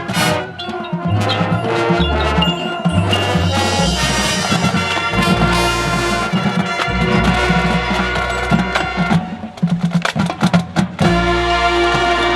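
Marching band playing, with sustained brass chords over low bass notes. Near the end comes a stretch of sharp percussion hits before the full band comes back in.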